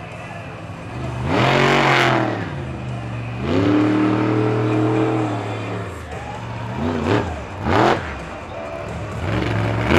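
Monster truck engine revving hard in repeated throttle bursts: pitch climbs sharply about a second in, again midway where it is held high for over a second, in two short blips later, and once more near the end, with the engine running lower in between.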